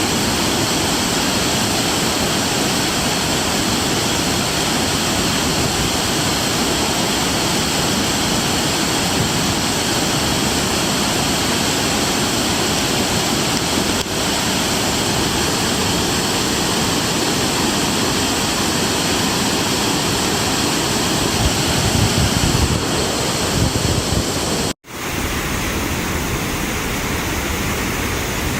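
Waterfall pouring: a loud, steady rush of falling water. About 25 seconds in, the sound cuts out for an instant and comes back a little thinner.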